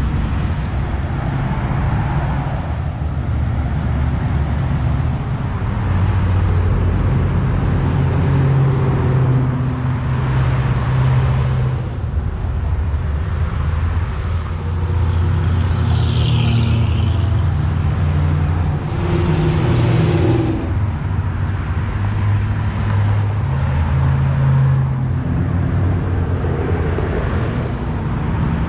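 Car engine running with a strong low hum, its pitch stepping up and down as the speed changes. A short high-pitched chirp comes about halfway through.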